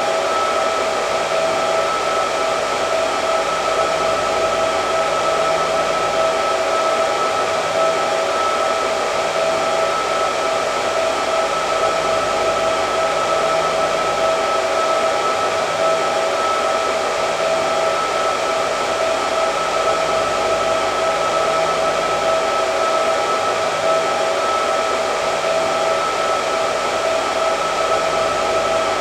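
Hair dryer running continuously: a steady rush of blown air with a constant motor whine held on one pitch.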